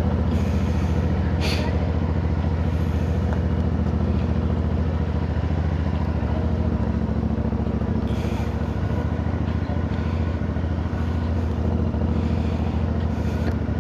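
A CFMoto 450NK's parallel-twin engine running at a steady, even pitch, with brief bursts of hiss over it now and then.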